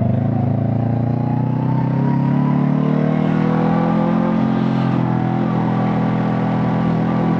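Honda CB500 Hornet parallel-twin engine and exhaust pulling under throttle, its note rising steadily for the first few seconds and then holding at a constant pitch.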